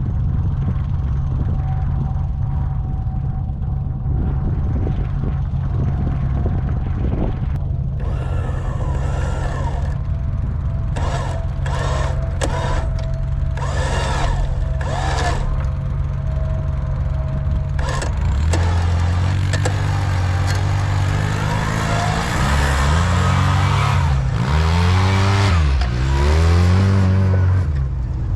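A vehicle engine idling steadily, with short repeated bursts of revving about a third of the way in. From a little past halfway, engines rev up and down again and again under load while a side-by-side stuck fast in frozen mud is pulled out.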